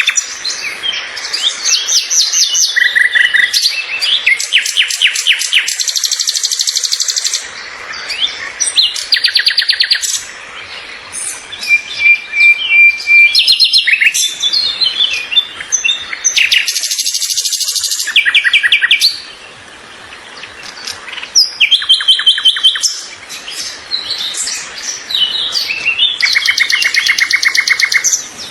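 Several birds singing together: overlapping rapid trills, chirps and whistled notes, with a few short lulls between phrases.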